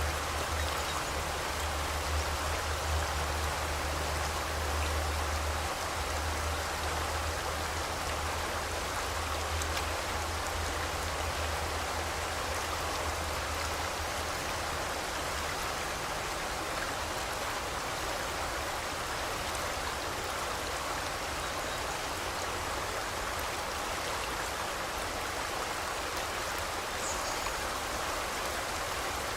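A forest river rushing steadily over rocks, with a low rumble underneath in the first half. A brief faint bird chirp comes near the end.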